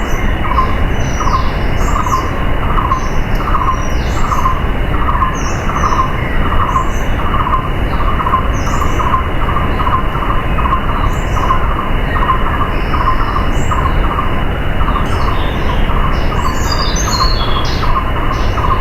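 Waterfall rushing steadily, with birds chirping high over it and a short call repeating about twice a second.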